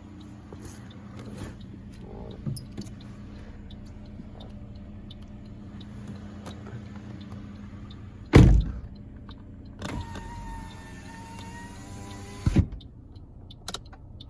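2018 Toyota Corolla SE power window motor running for about two and a half seconds, a steady whine that ends in a thump as the glass reaches its stop. A loud thump comes about a second and a half before the motor starts, over a steady low hum.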